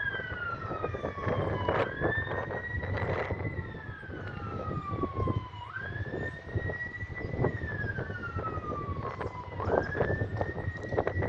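Emergency vehicle sirens wailing, at least two of them sweeping slowly up and down in pitch out of step with each other, with scattered clicks and a low rumble underneath.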